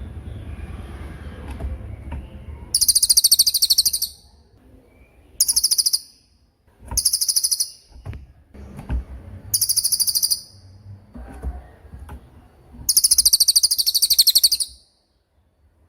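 Cililin bird singing its rapid, high-pitched trilling 'tembakan' song in five bursts, each lasting under a second to nearly two seconds, with short pauses between them.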